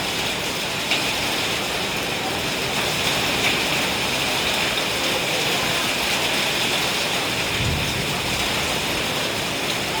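Heavy rain and hail pouring down in a storm, a steady loud hiss with a few sharp taps of hailstones striking.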